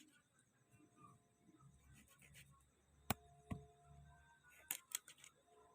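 Quiet knife work on a small wild bird's carcass: faint scraping and rubbing, with two sharp clicks about halfway through and two more about a second later.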